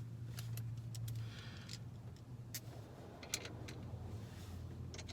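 Light, irregular clicks and taps of metal parts being handled as a billet shifter box is set into place on its mounting bracket, over a steady low hum.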